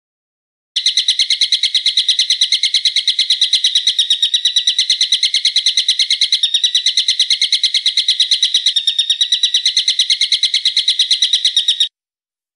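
Recorded bird call: one sharp note repeated rapidly and evenly, about eight times a second, for roughly eleven seconds, starting and stopping abruptly as an edited clip.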